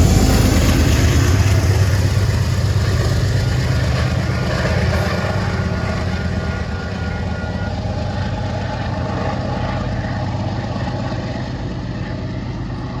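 Metro-North GE P32AC-DM diesel locomotive accelerating away, its exhaust a steady low rumble that slowly fades as the train recedes.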